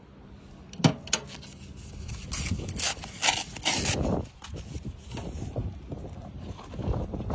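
Two sharp knocks about a second in, then a few seconds of scraping and rustling: wood and stove parts being handled while a small wood-burning stove is relit.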